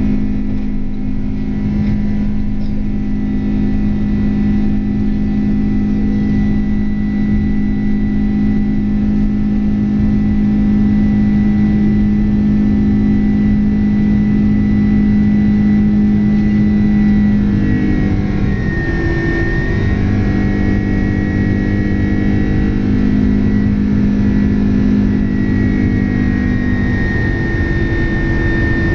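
Boeing 767's General Electric CF6 turbofan engines heard from inside the cabin: a steady loud drone with a low hum and a high whine. About two-thirds of the way through, the tones waver and settle at new pitches as the engine speed changes.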